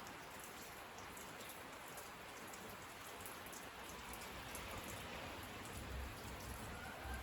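Steady rain falling, with individual drops ticking sharply on a surface. A low rumble comes in near the end.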